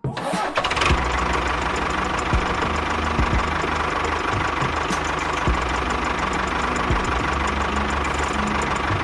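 A small motor running steadily with a fast rattling knock and a steady whine. It starts abruptly at the beginning.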